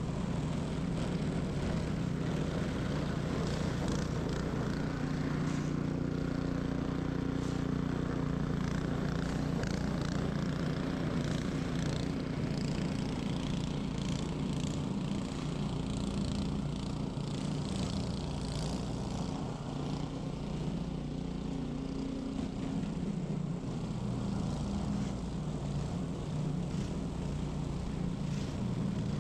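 Ariens 21-inch professional snow blower running steadily at a constant pitch while clearing snow, with irregular higher scraping and hissing over the engine hum.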